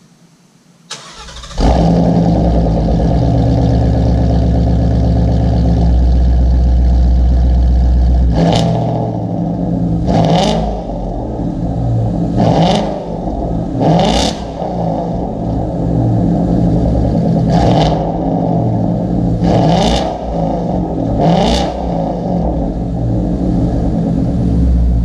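A 2017 Ford Mustang GT's 5.0-litre V8 is cranked by the starter, fires about a second and a half in, and settles into a steady idle through a Corsa Xtreme cat-back exhaust, its first start on the new exhaust. From about eight seconds in, the throttle is blipped seven times, each rev rising and falling quickly, before it idles again.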